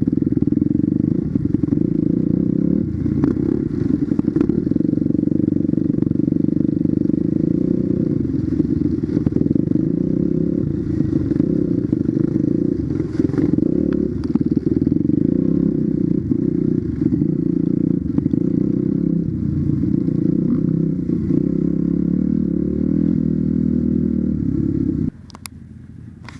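Dirt bike engine running steadily, with a few knocks over it; the sound stops abruptly about a second before the end.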